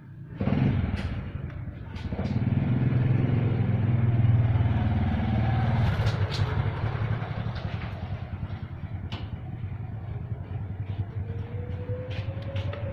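A motor vehicle's engine passing close by, starting suddenly, loudest for the first half, then fading away.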